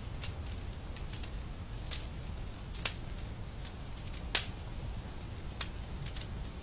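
Wood fire crackling in a fireplace: irregular sharp pops and snaps, the loudest about three and four and a half seconds in, over a steady low rumble.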